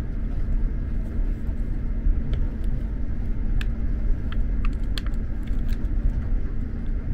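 Steady low rumble of an SJ X2000 high-speed train running, heard from inside the passenger car, with a few short faint clicks in the middle.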